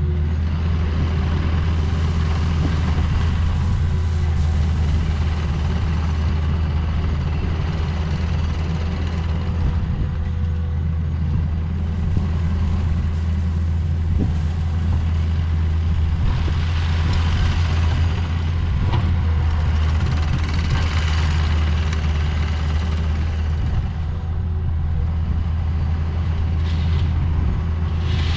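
Heavy diesel engine running steadily with a constant low drone.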